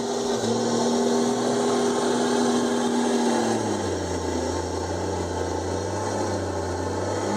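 Komatsu D51EX bulldozer's diesel engine running steadily, its engine speed dropping about halfway through and holding lower to the end.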